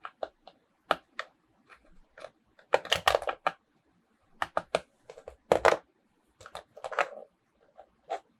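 Toys and their plastic packaging being handled by hand: an irregular run of sharp clicks and taps, with short crinkling rustles around three, five and a half and seven seconds in.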